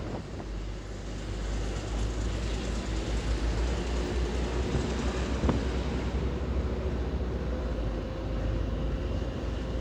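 A vehicle driving on a mountain road: steady engine and road noise with a deep rumble, a little louder from about two seconds in.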